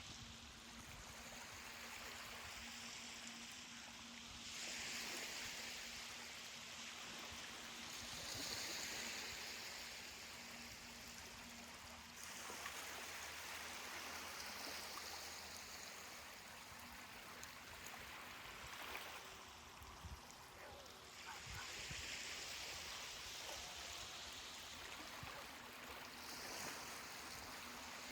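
Ocean surf washing onto a beach, the rush of water swelling and easing every few seconds.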